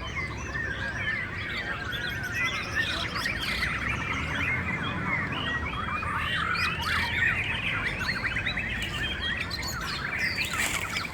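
Many white-rumped shamas singing at once in their cages, a dense overlapping stream of rapid whistled phrases and chattering notes with no pause.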